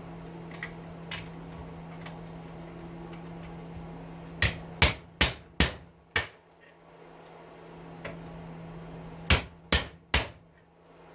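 Hammer striking a slender punch to drive out the rivets holding a hedge trimmer's motor in its plastic housing. A quick run of five sharp blows comes about four seconds in, then three more near the end; the rivets are not coming out.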